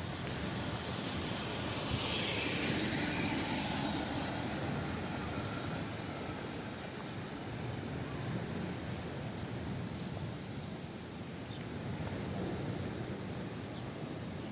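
Steady outdoor ambient noise with no speech, swelling about two seconds in and fading back by about five seconds, as when something passes by.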